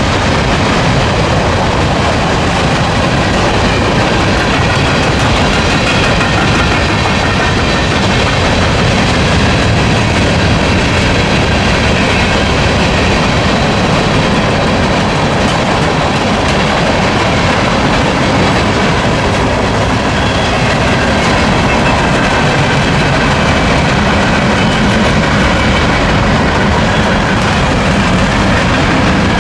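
Loud, steady rolling noise of a passing CSX mixed freight train's cars: tank cars, covered hoppers and flatcars, steel wheels running on the rails.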